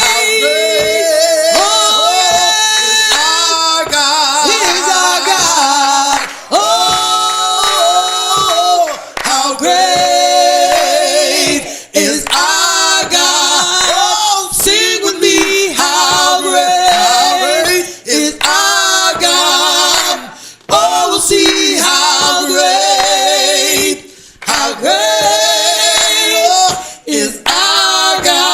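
Voices singing a slow worship song in harmony, with vibrato, phrase by phrase with short breaks between phrases.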